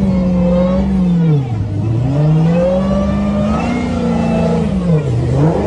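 A vehicle engine held at high revs, its pitch dropping sharply twice, about a second and a half in and again near the end, then climbing back each time, as with throttle lifts or gear changes.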